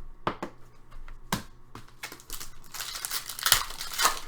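Trading card pack wrapper being handled and torn open, crinkling and tearing. A couple of sharp clicks come in the first second and a half, then a denser crinkle in the second half.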